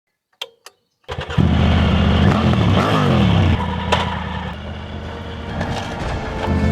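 Two short clicks, then a Triumph Tiger 900 Rally Pro's inline three-cylinder engine starts about a second in: it is revved up and down a couple of times, settles to a lower idle, and begins to rise again near the end.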